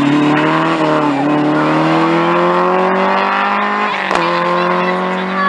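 Rally car engine accelerating hard, its note climbing steadily, with a gear change about four seconds in where the pitch drops and then starts climbing again.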